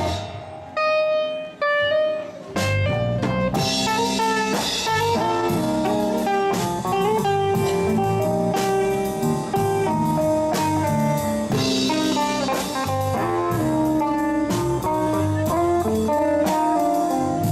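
Live band playing a blues-rock instrumental passage on guitar, bass and drum kit. Near the start the band drops out briefly to a few single notes, then the full band comes back in.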